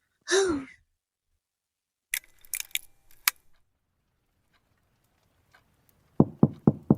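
A brief breathy vocal sound, then about a second of light clicks and rattles, then rapid knocking on a door beginning near the end, about four knocks a second.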